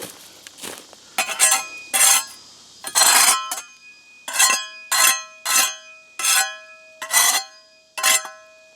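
Steel masonry trowel scraping and knocking leftover concrete, about ten strokes. Each stroke leaves a clear metallic ring hanging after it.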